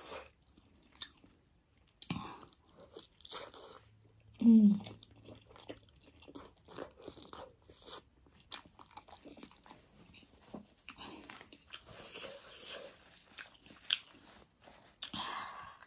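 Close-up chewing and biting of a big juicy pork momo: a run of small mouth clicks and smacks. A brief vocal sound about four and a half seconds in is the loudest moment.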